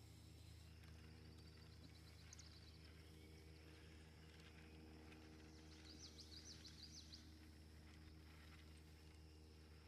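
Near silence with a steady low hum. A faint high bird trill comes about six seconds in, after weaker chirps about two seconds in.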